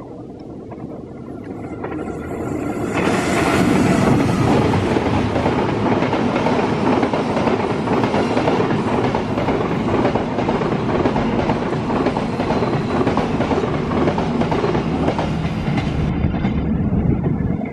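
Diesel-hauled passenger train passing close by. The locomotive's approach builds over the first three seconds into a loud, steady rush of wheels on rail with clickety-clack as the carriages go by. It eases off a second or so before the end.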